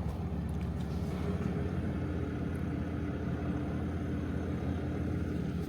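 Ram Cummins diesel tow truck running steadily while driving, a constant low drone with a faint steady whine.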